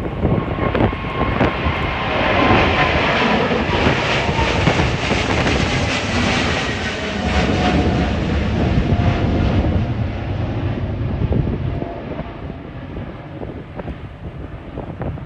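Jet airliner engines at takeoff power, a loud, rough roar with a faint whine that slowly drops in pitch as the aircraft passes. The roar fades over the last few seconds, with gusty wind buffeting the microphone.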